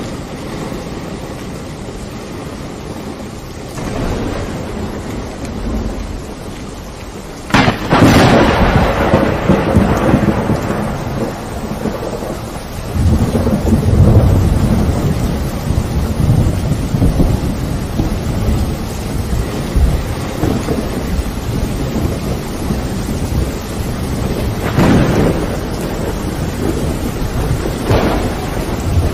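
Steady rain with thunder. A sudden sharp thunderclap about seven and a half seconds in rolls into a long low rumble, another rumble swells a few seconds later, and two smaller claps come near the end.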